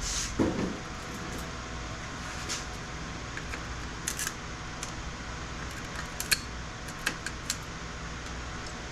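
Scattered sharp clicks and small metallic snaps, about half a dozen, as electronic components are pulled and pried off circuit boards by hand, over a steady background hum.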